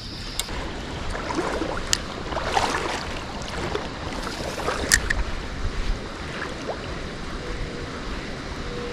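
Creek water splashing and sloshing around a wading angler, with a few sharper splashes or clicks about two and five seconds in.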